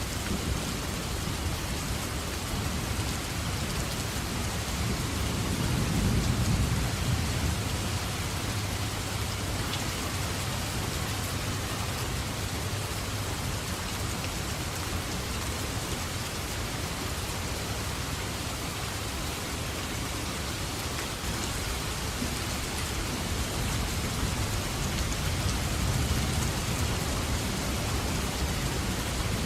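Steady heavy rain falling on foliage, with distant thunder rumbling low twice, a few seconds in and again near the end.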